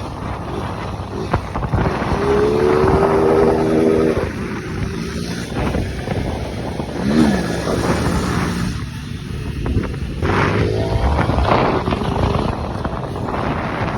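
Small motorcycle engines revving, one pitch rising and falling sharply about seven seconds in, with wind noise on the microphone.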